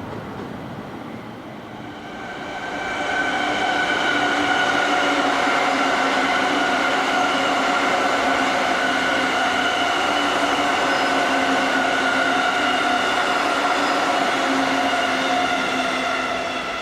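Electric commuter train running at a station platform: a steady, high multi-tone motor whine over wheel and rail noise, swelling in after about two seconds and easing off near the end.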